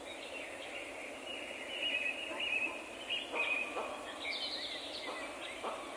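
Birds chirping and singing over a steady outdoor background noise, with a few soft knocks in the second half.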